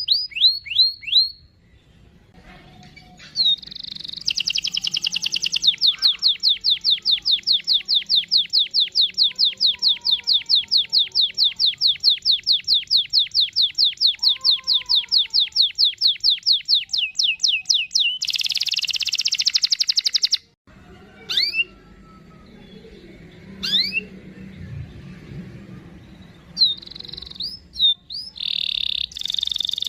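Domestic canary singing. A long rolling trill of rapid repeated notes runs for about fourteen seconds, then a harsh buzzy phrase, a break with a few separate chirps, and fast trills again near the end.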